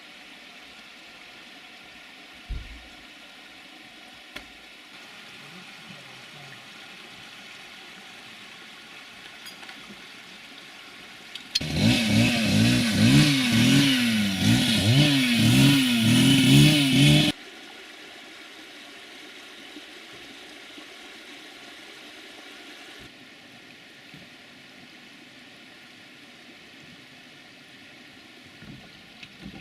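Tractor engine revving up and down over and over for about six seconds in the middle, starting and stopping abruptly. Before and after it there is only a steady low background noise.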